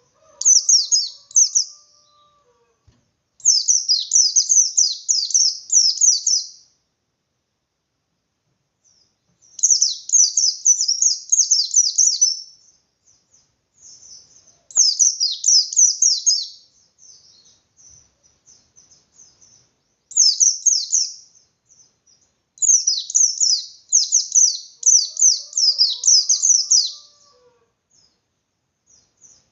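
Pleci (white-eye) singing its full 'ngalas' song. It comes in bursts of rapid, high, falling notes, each about two to three seconds long, repeated after short pauses.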